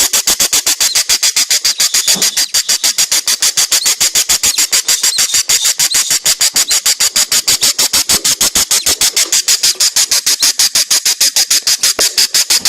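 Budgie chick begging: a rapid, steady run of short high squeaky cheeps, about seven a second, kept up without a break.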